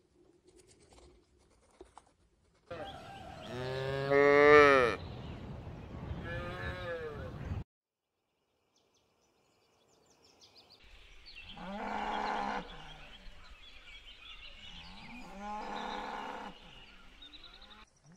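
Cattle mooing: a long, loud moo that bends down in pitch near its end, followed by a shorter one. After a few seconds of silence, two more calls follow about four seconds apart.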